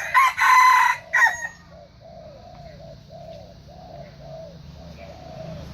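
Red junglefowl cock crowing once at the start, a short, clipped crow of about a second and a half in several parts. Afterwards soft low calls repeat about twice a second.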